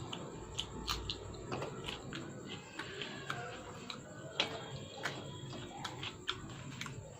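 Mouth clicks and smacks from someone chewing food close to the microphone, an irregular run of quick ticks.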